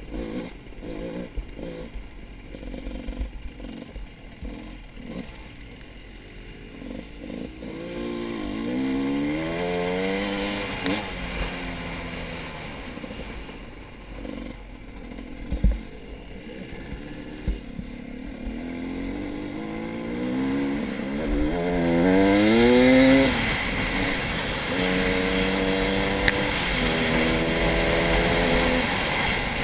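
Motor vehicle engine revving up and falling back several times, loudest about two-thirds of the way through, then running at steadier speeds near the end, after a rough, clattering start.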